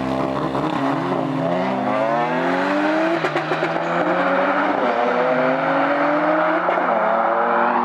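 Car engine revving: the pitch climbs over about two seconds, then is held at high revs, wavering up and down.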